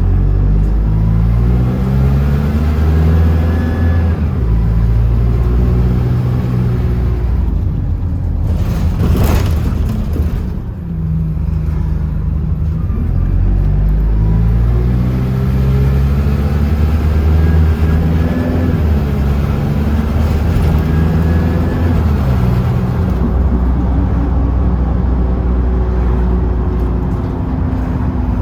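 Bus engine and transmission running, pulling up through the gears twice, the engine note climbing and stepping down at each shift. A brief hiss comes about nine seconds in.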